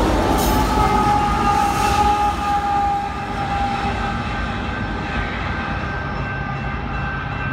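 Diesel-electric locomotives at the end of a loaded coal train rumbling past and moving away, the noise easing a little after about three seconds. Steady high tones sound over the rumble.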